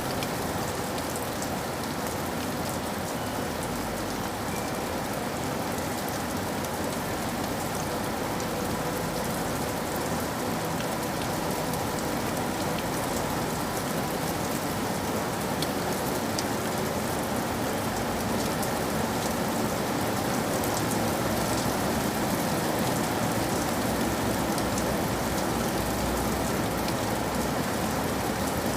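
Steady rain falling, a constant hiss with scattered drops ticking on a surface.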